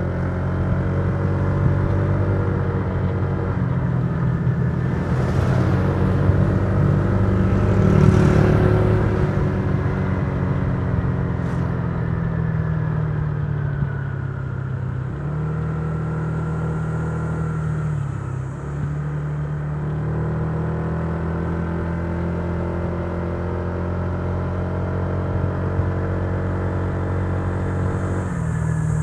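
Honda Giorno 125 scooter's single-cylinder 125 cc engine running at a steady cruise with tyre and wind noise, its note dipping briefly about 15 and 18 seconds in as the throttle eases and picks up again. A louder rush of noise swells and fades around 8 seconds in.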